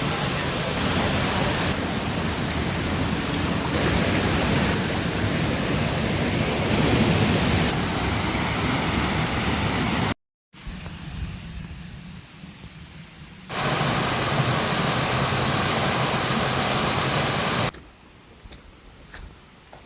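Steady rush of waterfall water. It cuts out for a moment about ten seconds in, is much softer for a few seconds, then comes back at full strength and falls away to a faint hush with a few small ticks near the end.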